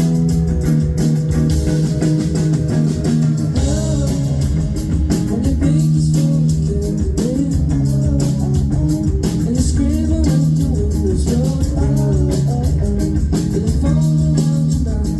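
Indie rock band playing live, with electric guitar, bass guitar and drums.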